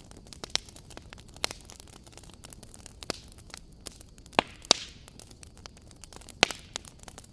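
Wood fire crackling in a fireplace: irregular sharp pops and snaps over a low hiss, the loudest pops coming in a quick pair a little past the middle and again about a second later.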